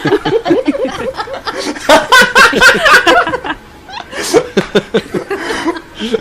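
People laughing hard in rapid repeated bursts, loudest in the middle, cutting off abruptly at the end.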